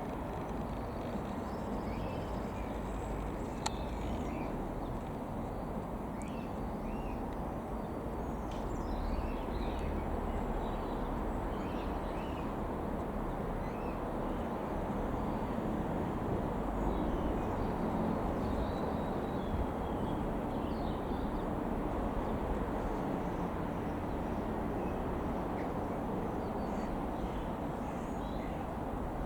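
Ikarus C-42 FB100 light aeroplane droning by at a distance, its engine growing a little louder towards the middle and then easing off. Birds chirp now and then over the drone.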